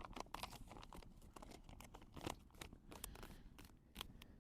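Faint chewing of a mouthful of rehydrated chicken teriyaki, a scatter of small crunches and clicks.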